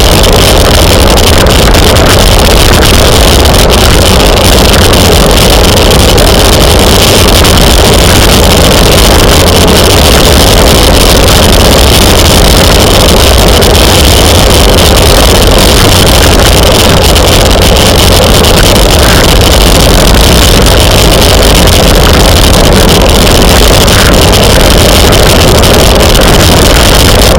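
Loud, steady wind rush buffeting the microphone of a camera carried at bicycle racing speed, with a deep rumble underneath; the level sits near the top of the recording's range throughout.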